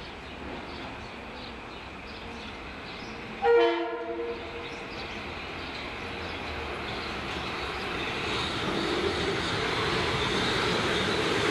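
Metro-North M8 electric commuter train approaching: a short horn blast about three and a half seconds in, then the rumble and wheel noise of the train growing steadily louder as it nears.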